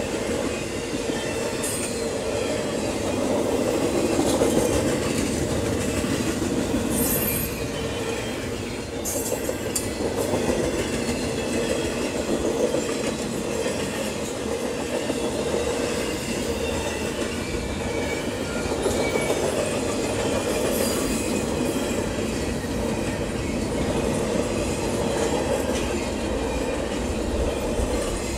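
Double-stack container freight train rolling past: steady noise of the cars' wheels on the rails, with a couple of brief high wheel squeals about seven and nine seconds in.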